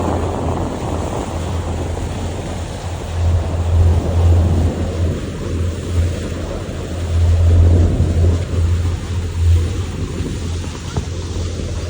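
Wind buffeting the microphone in uneven gusts, over a steady low rumble.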